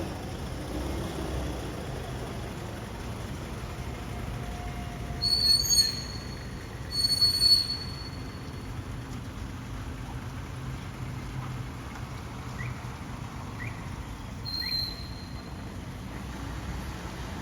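Heavy dump truck's engine running steadily, with two brief loud high-pitched squeals about five and seven seconds in and a fainter one near fifteen seconds.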